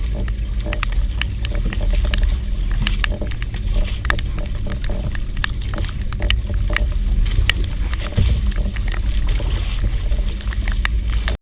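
Fishing boat's engine running steadily with a low rumble, with many sharp ticks scattered over it.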